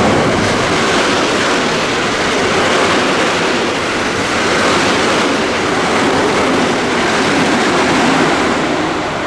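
Electric train running past the platform: a loud, steady rail rumble and rush of wheel and air noise with no horn, easing slightly near the end.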